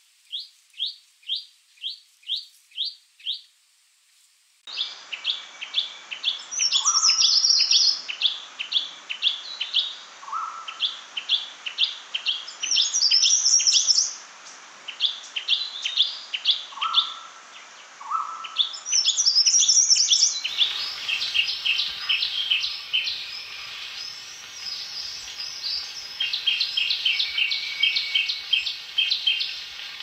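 Chestnut-fronted shrike-babbler song: first a series of eight short rising notes, about two a second. Then, about four and a half seconds in, a different recording takes over with repeated phrases of rapid notes and higher trills over a steady background hiss.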